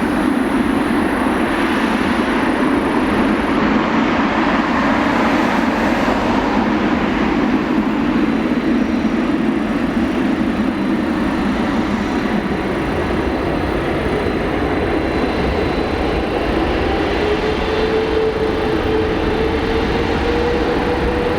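Boeing 777-300ER's GE90-115B turbofan engines at takeoff thrust: a steady, loud jet noise, with a thin tone rising slightly in pitch over the last few seconds.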